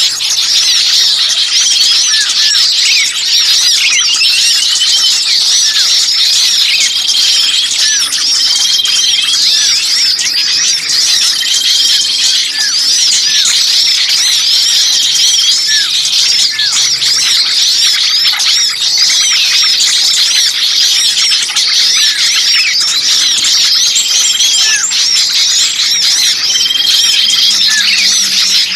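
Dense, continuous chorus of many small songbirds chirping and squeaking in high, rapid calls, with a short level whistle recurring every few seconds. It is a bird-lure recording of noisy 'pinched' (distressed) small birds, used to draw other birds in.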